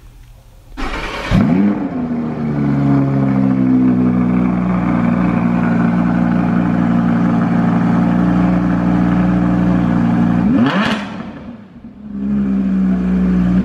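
Audi R8 V10 Plus's naturally aspirated 5.2-litre V10 started with a short burst of cranking, catching with a rise in revs and settling into a steady idle. Near the end it revs once quickly, drops back and settles to idle again.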